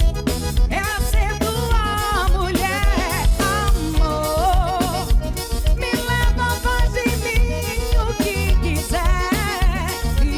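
Live band music with a steady bass-and-drum beat under a wavering melody line.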